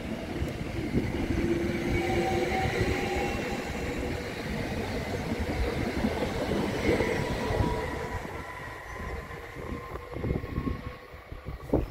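Electric multiple-unit commuter train moving past and away, with wheels running on the rails and a faint electric motor whine. The sound fades after about eight seconds.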